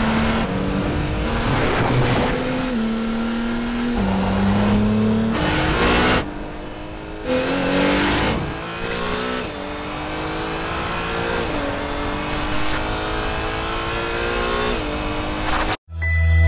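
A car engine revving and accelerating through gears, its pitch climbing steadily and dropping suddenly at each shift. Near the end it cuts off and a short, steady, low musical tone begins.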